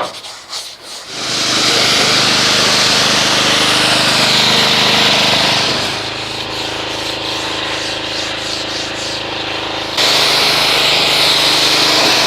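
A stiff brush scrubbing car paint for about a second, then a pressure washer starts and runs steadily: a motor hum under the hiss of the spray. The spray dips slightly about halfway through and jumps back up a couple of seconds before the end.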